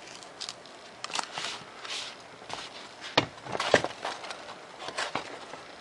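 Razor knife scoring and cutting through a sheet of 3mm Depron foam along a ruler, with a string of short crackling scrapes and clicks; the sharpest two come a little over three seconds in.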